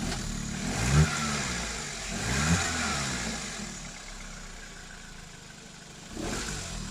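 A 2014 SEAT petrol engine is blipped twice with the throttle, its pitch rising and falling each time, then settles back to idle, with a brief swell of noise near the end. The engine runs normally now that the crank-no-start fault, traced to swapped fuel pump hoses, is cured.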